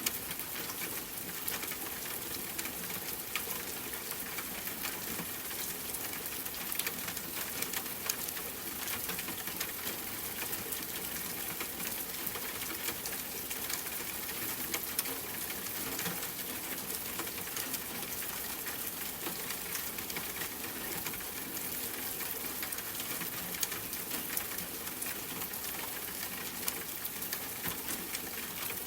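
Steady rain: a constant even hiss sprinkled with many small drop ticks.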